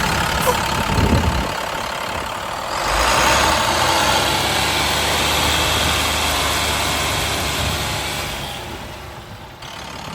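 Diesel engine of a 2009 International 4400 bucket truck idling with a steady low hum. It gets louder about three seconds in and fades away near the end.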